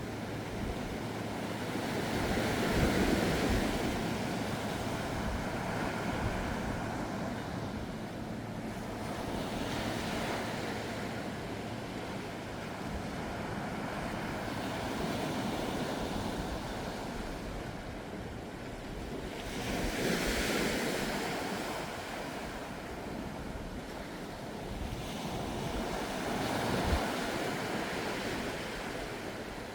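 Gentle ocean waves washing onto the shore, surging and easing every several seconds, with the biggest swells about three seconds in and two-thirds of the way through. Wind is on the microphone.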